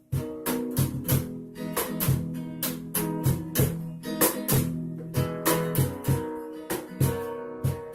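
Acoustic guitar strummed in a steady rhythm, an instrumental passage with no singing; it starts abruptly just after a brief near-silent break.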